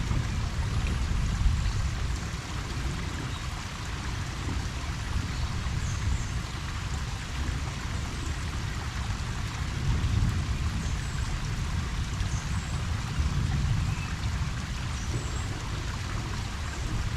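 Steady rain falling on a koi pond and its surroundings, an even patter and splash, with a low rumble underneath that swells slightly now and then.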